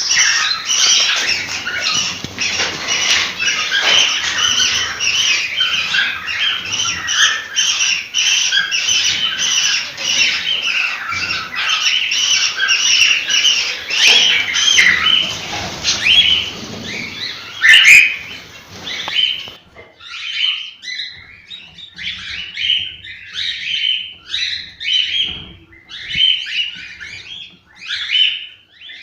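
Cockatiels chirping and squawking, many birds calling densely at once. About two-thirds of the way in the sound switches abruptly to sparser, evenly repeated chirps.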